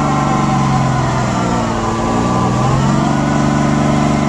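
Car engine revving loudly through its exhaust, held at high revs, sagging briefly about halfway through and then climbing back up.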